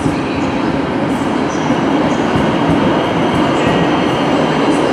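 Intercity passenger coaches rolling past close by, a steady, loud noise of wheels running on the rails.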